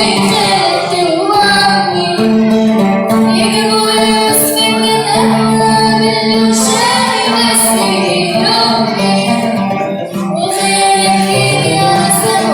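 A woman singing a song in Arabic over instrumental accompaniment, her voice holding and bending long notes.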